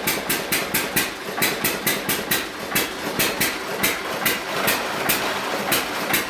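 1924 John Deere E-series single-cylinder hit-and-miss engine running under heavy load, giving a sharp exhaust bark about three to four times a second. It fires on most strokes, with a few longer gaps where it skips a firing.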